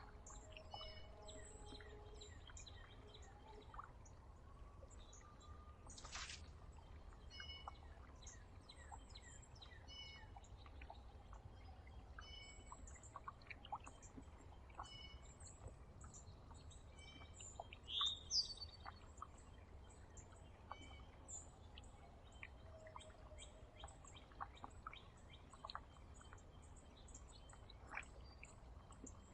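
Faint chirps and calls of small songbirds at a backyard feeder, short high notes scattered throughout, with a louder call about eighteen seconds in and a low, steady rumble underneath.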